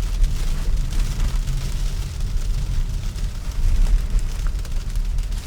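Tyre and road rumble inside a Tesla's cabin while driving on snow-packed pavement, with sleet ticking against the glass and body.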